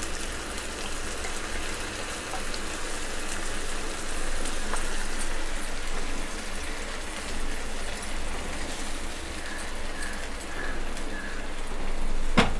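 Wet onion-tomato-curd paste sizzling in hot oil in a nonstick frying pan: a steady spattering hiss with fine crackles. A spatula knocks against the pan once near the end.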